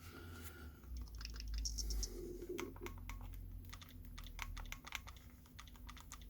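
Buttons on a Nintendo Switch controller being pressed over and over, a quick run of light plastic clicks, as the reassembled controller's buttons are tested for response.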